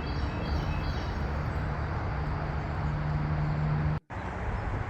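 Outdoor ambience: a steady wash of road-traffic noise with a low hum, and a few faint bird chirps in the first second or so. The sound cuts out abruptly for a moment about four seconds in.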